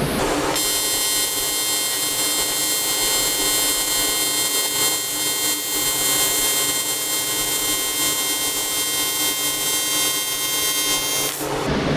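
AC TIG welding arc on aluminium, buzzing steadily as a weld bead is run along a joint. It starts about half a second in and cuts off abruptly about a second before the end.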